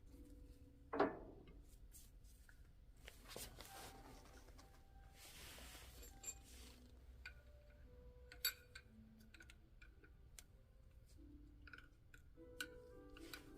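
Quiet workshop handling of small metal parts and tools: scattered light clicks and clinks, a sharper knock about a second in and another around eight and a half seconds, and a short hiss around five seconds in.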